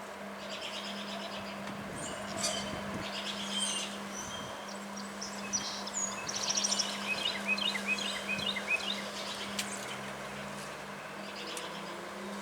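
Several songbirds chirping and calling, with a fast trill about halfway through and then a quick run of short, falling chirps, over a steady hiss and a low steady hum.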